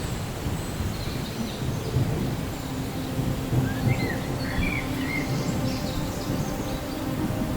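Low, continuous rumble of thunder over a steady wash of rain. A few short bird chirps rise and fall about three to five seconds in.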